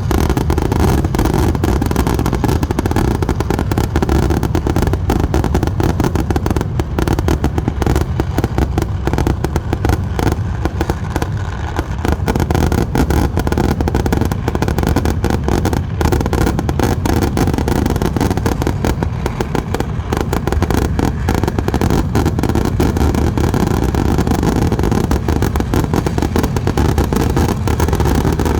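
Fireworks going off in a dense, unbroken run of rapid cracks and bangs over a continuous low rumble, keeping up without a pause.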